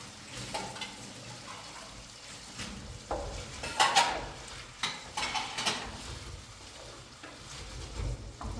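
Food sizzling in a pan while a utensil stirs and scrapes against it, with the sharpest scrapes about four and five and a half seconds in.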